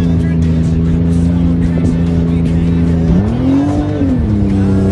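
Mercury jet outboard on an aluminum jet boat running steadily at speed, revving up about three seconds in and dropping back to a steady pitch within a second.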